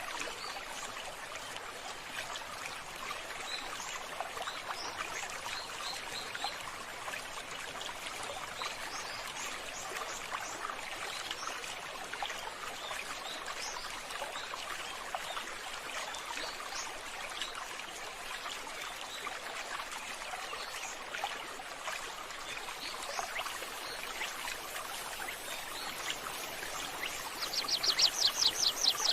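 Water running steadily, like a stream or fountain, with small high chirps scattered through it. Near the end a loud, rapid run of high-pitched pulses lasts about a second and a half.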